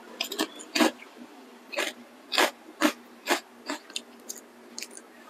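Crisp fried snack chip crunching between the teeth as it is bitten and chewed: a run of sharp, loud crunches, smaller and sparser toward the end as the chip breaks down.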